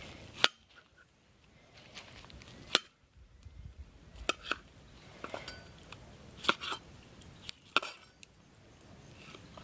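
Metal utensils clinking and knocking against cookware: about eight sharp, separate strikes spread irregularly through the stretch, the loudest near the start.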